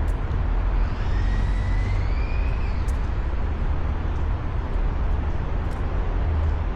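Steady low outdoor rumble, with a faint rising squeak about a second in.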